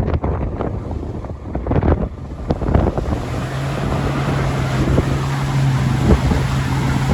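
Vehicle engine running under load with wind buffeting the microphone; a few knocks early on, then from about three seconds in a steady low drone holds to the end.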